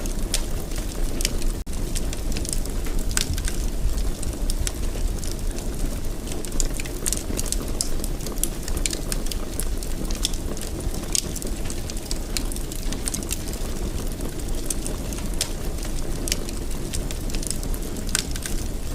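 Fireplace wood fire crackling: irregular sharp pops and snaps over a steady low rumble of flames, with a momentary break in the sound about a second and a half in.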